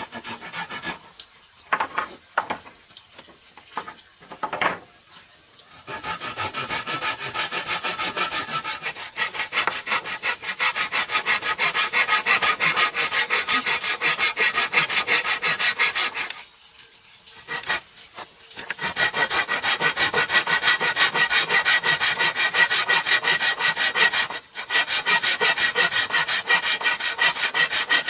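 Handsaw cutting through wood in long runs of fast, even strokes, with a short pause partway through. A few short separate scrapes come first.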